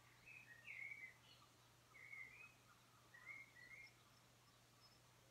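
Faint birdsong: a few short chirping phrases, one every second or so, over near silence with a low steady hum underneath.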